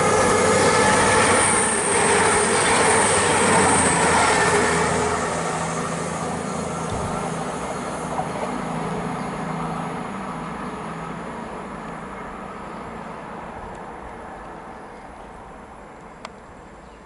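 CrossCountry Voyager diesel multiple unit passing at speed, its engines and wheels on the rails loud at first, then fading steadily as it runs away into the distance.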